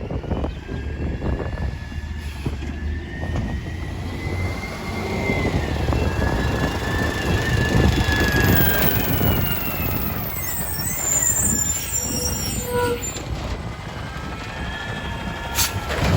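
Autocar ACX garbage truck with a McNeilus Contender body running, with a low engine rumble and a high whine that slowly rises and falls over several seconds. A few sharp knocks come near the end.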